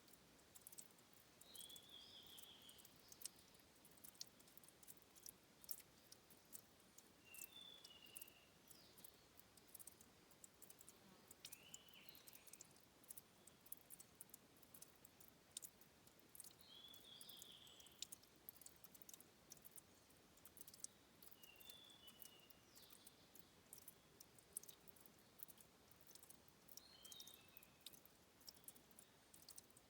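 Faint trickling and dripping of a spring-fed trickle at a stream's source, heard as a dense run of tiny clicks over a soft hiss. Short high chirps come in small groups every few seconds.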